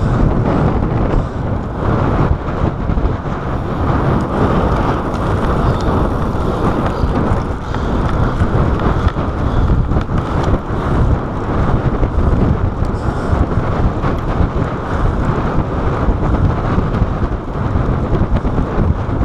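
Wind buffeting the microphone of a chest-mounted action camera on a bicycle ridden at speed: a loud, steady, deep rumbling rush.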